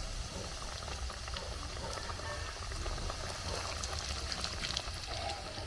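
A pot of food cooking over a fire in hot liquid, with a steady bubbling hiss and many small crackles throughout.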